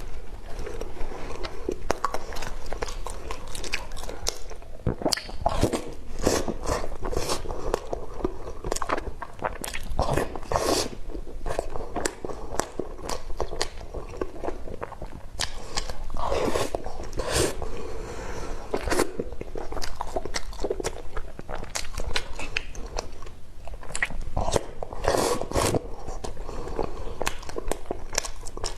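Close-miked mouth sounds of a person eating: chewing and biting, with many irregular wet clicks and occasional crunches.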